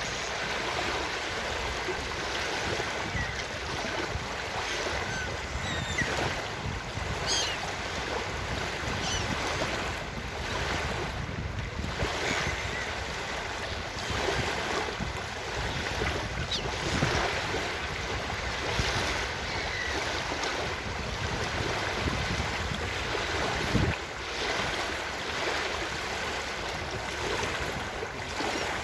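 Ocean surf washing steadily on a beach, with wind, and short faint seagull calls scattered through. A single brief thump stands out about three quarters of the way in.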